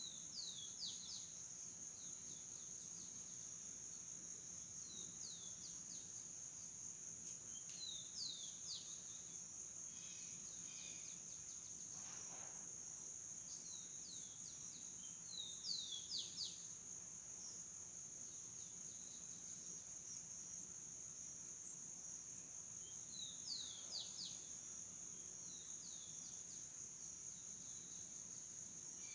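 Steady high-pitched insect chorus, like crickets, with a bird calling at intervals in short groups of three or four quick falling chirps.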